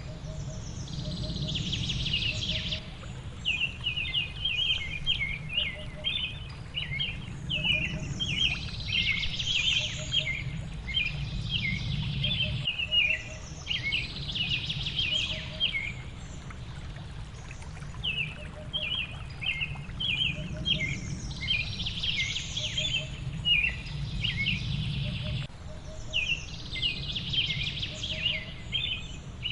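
Songbirds chirping in quick, busy clusters every few seconds over a steady low rushing background.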